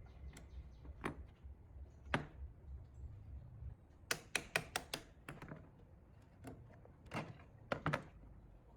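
Workshop handling sounds: scattered sharp clicks and knocks of tools and parts being handled, with a quick run of about six taps near the middle, over a low hum that stops a little before halfway.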